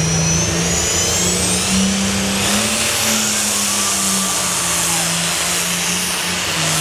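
Super stock pulling tractor's turbocharged engine running hard under load during a pull. The engine pitch wavers, and a high turbo whine climbs in pitch over the first couple of seconds.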